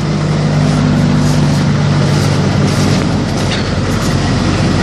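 Chevy S10's 2.2-litre four-cylinder engine idling steadily just after a cold start.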